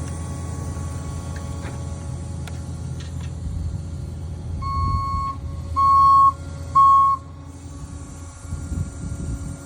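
Engine of an earth-moving machine running with a steady rumble, and its back-up alarm beeping three times about a second apart around the middle, the last two beeps loudest.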